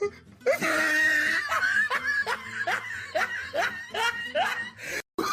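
A person laughing in a run of short rising "ha" bursts, about two to three a second.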